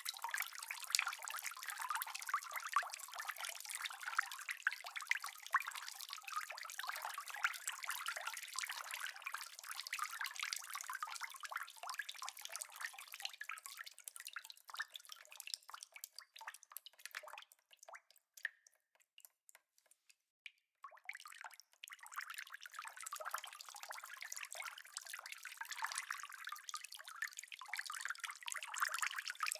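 Steady rain: a dense mass of small drops and drips. About two-thirds of the way through it thins out and nearly stops for a few seconds, then comes back as thick as before.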